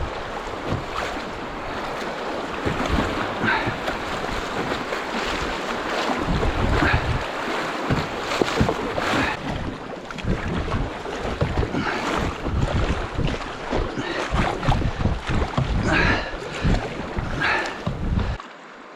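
Wind buffeting the microphone over moving river water, with short splashes every two to three seconds from the kayak on the water. The wind rumble stops just before the end.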